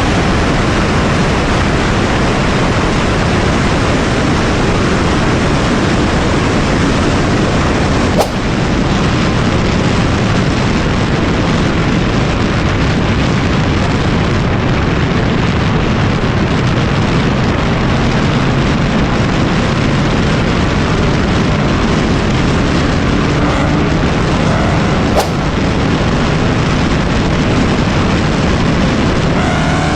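Loud, steady wind buffeting on the camera microphone with a low rumble underneath, broken by two sharp clicks. Near the end a car engine's pitch rises as it revs.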